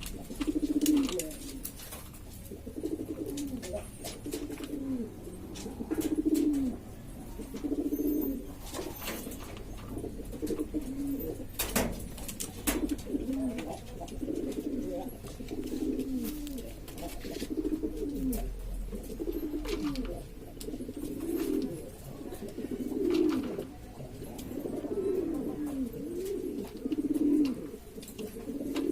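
Domestic pigeons cooing over and over, several birds overlapping in a noisy chorus of low, falling coos, with occasional sharp clicks and a knock about twelve seconds in.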